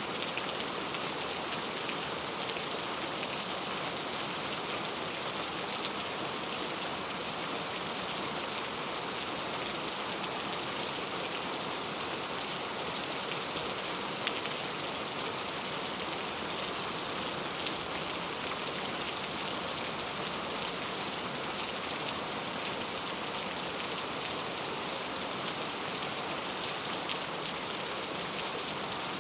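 Steady rain falling, a constant hiss with many small drops pattering and the odd louder drip.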